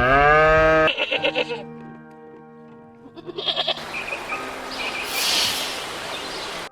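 Goat bleating: a loud rising bleat at the start, then shorter wavering bleats, over background music.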